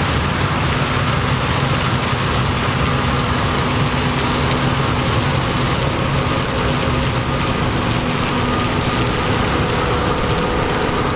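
Combine harvester running steadily while harvesting corn: a steady engine note over the even noise of its harvesting machinery.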